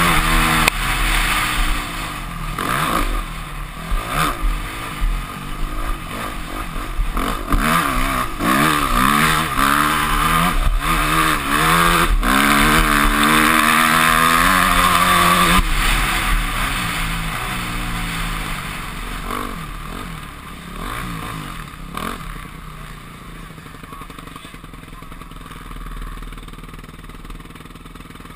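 Yamaha YZ250F four-stroke single-cylinder motocross engine revving up and down repeatedly as it is ridden, with rapid rises and drops in pitch. Over the second half the engine sound falls away and grows quieter, as the bike eases off.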